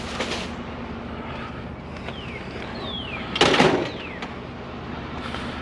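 A vehicle engine idling with a steady low hum, and one short, loud rustle about three and a half seconds in.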